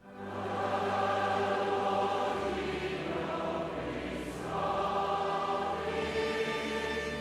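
A choir singing a hymn, with held low notes underneath the voices; the singing sets in at the very start after a brief hush.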